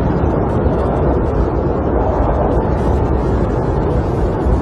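Snowstorm wind blowing steadily around a camper, heard from inside as a dense, even, low rumble with little high sound.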